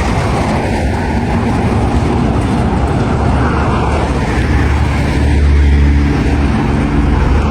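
Road noise while riding a bicycle along a road: a steady, heavy low rumble of wind on the microphone and motor traffic, with a passing vehicle loudest about five to six seconds in.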